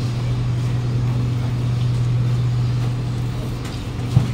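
Steady low hum inside a Kawasaki Nippon Sharyo C751B train carriage standing at a station, with a single short knock about four seconds in.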